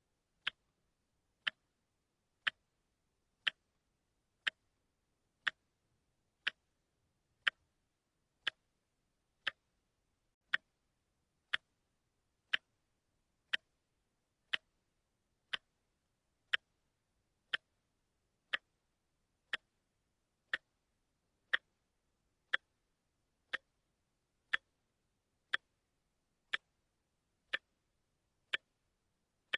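Watch ticking steadily, one sharp tick each second, with silence between the ticks.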